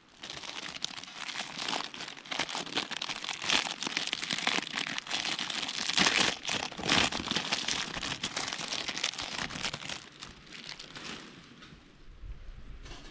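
Paper or plastic packaging being crumpled and handled, a dense irregular crinkling that eases off near the end.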